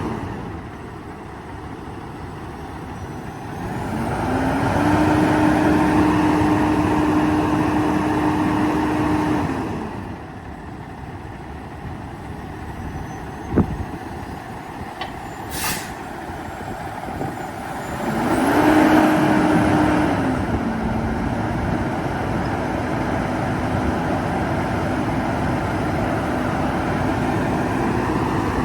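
Diesel engine of a 2016 Peterbilt 567 dump truck idling, then revved up and held twice: once for about five seconds and later for about two, each time settling back to idle. A sharp click and a short hiss come in between.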